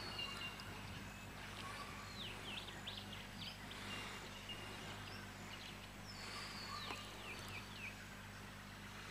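Faint outdoor ambience with birds calling: quick sweeping whistled notes in two bouts, about two seconds in and again around six to seven seconds in, over a low steady hum.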